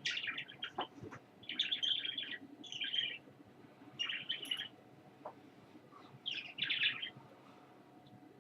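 A small pet bird chirping in quick, chattering bursts, about five of them with short pauses between.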